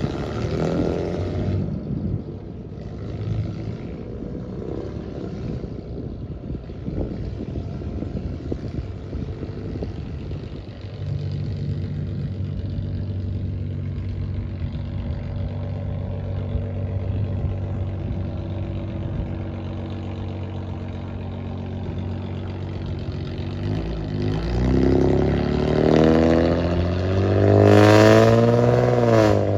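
Classic car engines running. One engine idles steadily close by from about a third of the way in, then revs up with a rising note near the end and drops back as it drives off.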